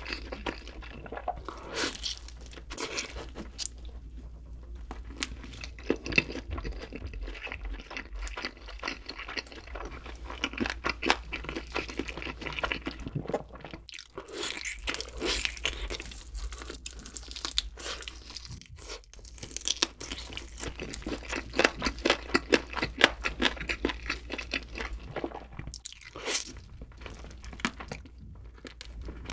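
Close-miked biting and chewing of barbecue chicken wings: many small, irregular crunches and crackles as the meat is bitten and pulled off the bone.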